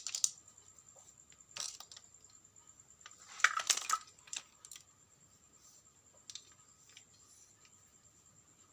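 Small hard objects clicking and clattering in a few short bursts as they are handled, loudest near the start and again about three and a half seconds in, over a faint steady high-pitched whine.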